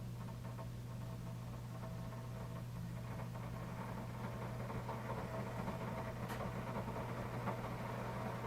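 Keurig K-2550 commercial coffee maker heating water in its internal tank: a steady low hum, with a hiss that grows louder from about three seconds in.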